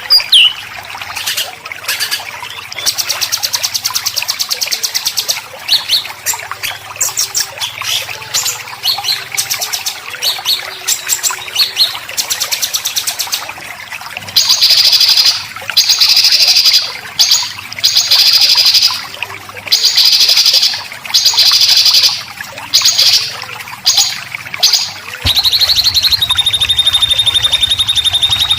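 Recorded songbird calls of white-rumped shama and greater green leafbird: harsh, rapid, scratchy 'besetan' bursts. Quick trills come first, then repeated loud rattling bursts about a second long from about halfway, and near the end a long held buzzing note.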